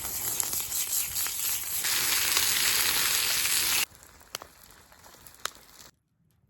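Food sizzling in a hot pan: a loud, steady hiss that grows louder about two seconds in and cuts off abruptly just before four seconds. A quieter stretch with a few sharp clicks follows.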